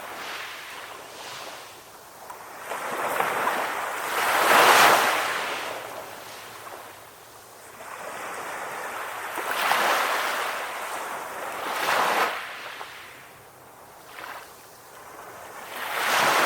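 Sea waves breaking in turn, each surge of surf swelling and falling away; the loudest breaks about five seconds in.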